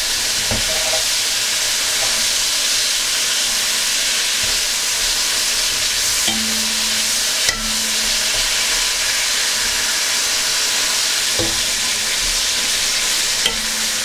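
Green chillies frying in hot oil in a metal kadhai, a steady sizzle, with a few light clicks as a wire skimmer turns them in the pan.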